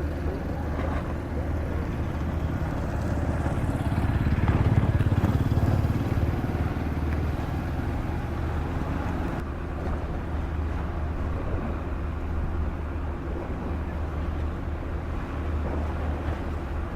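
Steady low engine rumble with a deep, even hum. It swells louder for a couple of seconds about four seconds in, then settles back.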